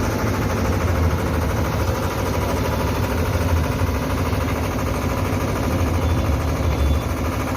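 Engine of a bitumen tanker truck running steadily at idle, with a low, even rumble.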